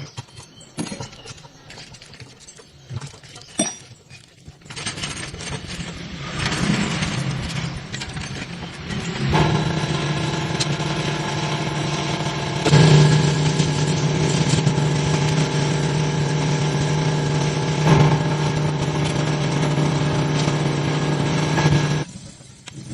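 A motor or engine runs at a steady pitch from about nine seconds in, with two brief louder surges, and cuts off abruptly near the end; before it starts there are scattered clicks and knocks.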